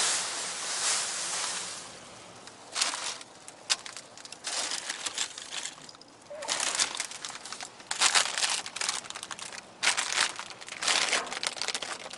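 Plastic and packaging crinkling and rustling in irregular bursts as trash is rummaged through in a dumpster.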